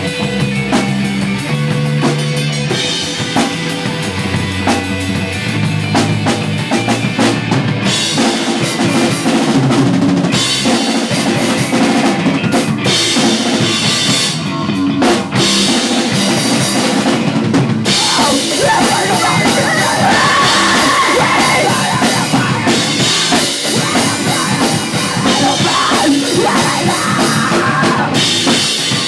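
Pop punk band playing a song live, drum kit prominent with kick and snare hits driving a steady rock beat over bass and the full band.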